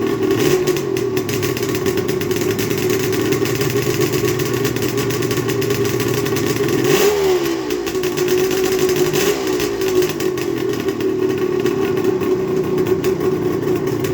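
1977 Suzuki GT750's two-stroke three-cylinder engine running on choke just after a cold kick start, a steady fast idle. About halfway through the engine speed swings briefly up and back down, with a smaller swing a couple of seconds later.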